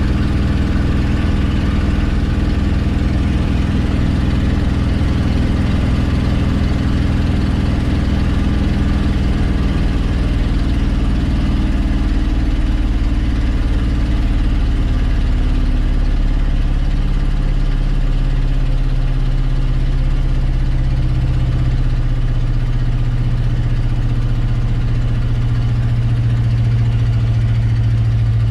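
Old Ford F350 pickup's engine pulling a loaded gooseneck trailer up a long hill, a steady drone under load whose tone changes about halfway through.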